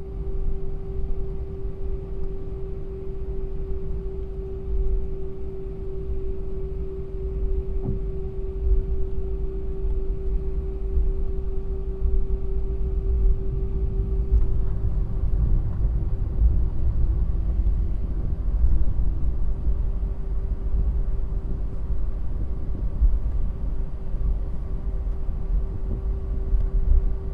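Airliner cabin noise on the ground before takeoff: a steady low rumble with a constant mid-pitched hum over it.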